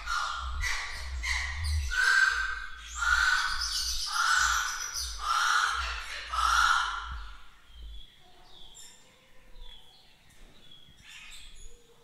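Birds calling: a series of loud, harsh calls about once a second, stopping at about seven seconds, followed by fainter, short, high chirps from smaller birds.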